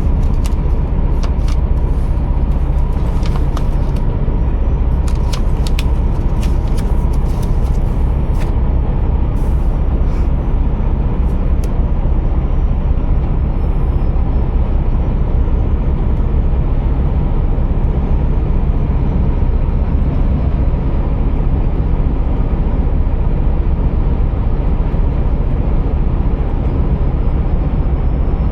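Scania R480 truck running with a steady low engine drone. Scattered sharp clicks and crackles come over it during roughly the first dozen seconds.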